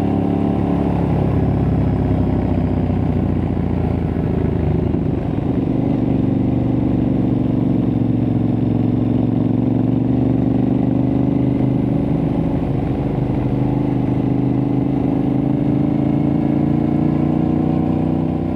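Aprilia Tuareg 660's parallel-twin engine through a replica Akrapovic exhaust, running steadily as the bike cruises. The pitch dips slightly about five seconds in and rises gently near the end.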